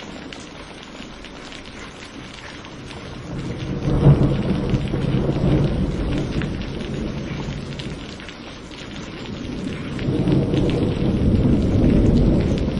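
Steady rain with rolling thunder. A rumble swells about three and a half seconds in, peaks sharply near four seconds and slowly fades, then a second rumble builds from about ten seconds in.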